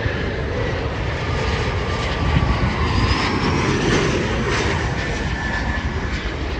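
Embraer E175 regional jet taking off, its two turbofans running at takeoff power: a loud, steady jet noise with thin whining tones over it, one gliding up in pitch about halfway through.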